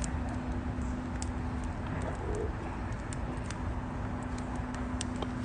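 Wood campfire crackling, with sparse sharp pops over a low steady rumble.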